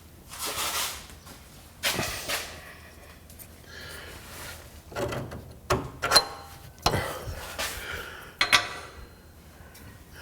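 Scattered metal clanks and knocks of hand tools and suspension hardware being handled under a Jeep: a sharp knock about two seconds in, and a cluster of louder clanks between five and nine seconds, with shuffling and scraping between.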